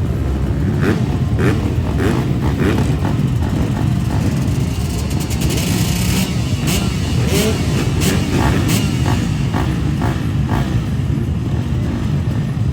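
Dirt bike engines running and revving over a dense low rumble, with scattered sharp crackles.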